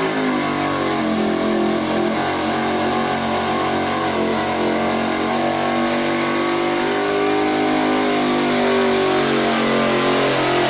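Pro-street pickup truck engine running at high revs under heavy load, pulling a weight-transfer sled. It holds a steady note and climbs a little near the end.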